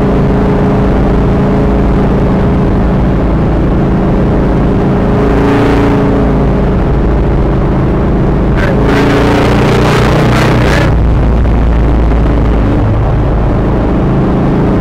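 1964 Dodge 330's 383 V8 running steadily at highway cruise, heard from inside the cabin along with road noise. A short rush of noisier sound comes about nine to eleven seconds in.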